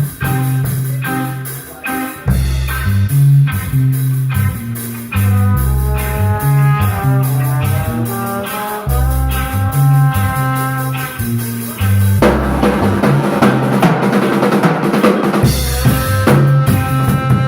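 Live instrumental band playing: a drum kit beat under a low, stepping bass line and pitched guitar lines. About two-thirds of the way through, the sound thickens into a loud, dense wash for about three seconds before the groove returns.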